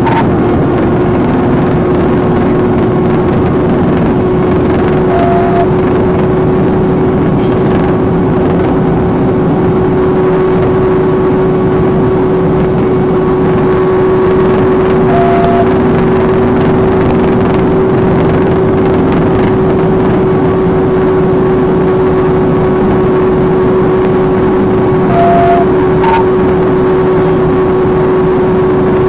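Loud, steady vehicle running noise with a constant humming tone. A short electronic beep sounds three times, about ten seconds apart.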